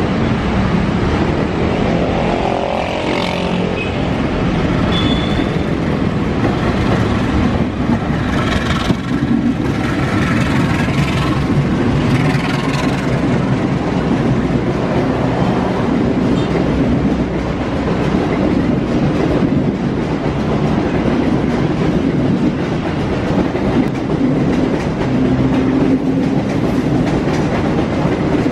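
Diesel-hauled passenger train running through the station, a steady noise of the locomotive and carriages on the rails.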